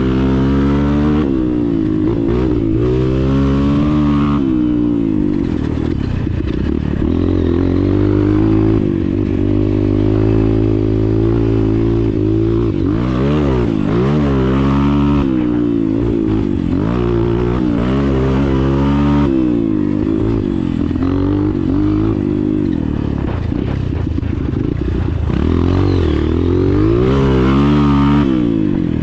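Motocross dirt bike engine running hard, its pitch repeatedly climbing and dropping as the throttle opens and closes through the track's sections.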